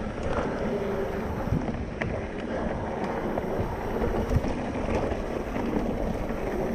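Wind rushing over the microphone while a mountain bike rolls along a dirt trail, with tyre noise and small knocks and rattles from the bike.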